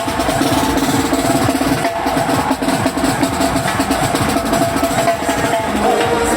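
Music with fast, dense drumming in an even, driving rhythm.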